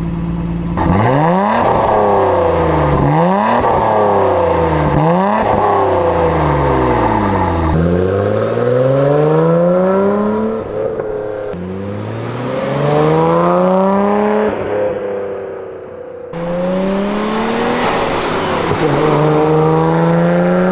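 Nissan R33 Skyline GT-R's RB26DETT twin-turbo inline-six running through an HKS Super Turbo Muffler exhaust, first blipped several times in quick rises and falls of revs, then in longer climbs in pitch, broken by abrupt cuts between clips.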